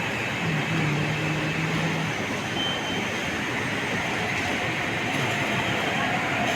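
MTR East Rail line R-train running, a steady rush of rail noise. A low hum rises and holds from about half a second in to two seconds in.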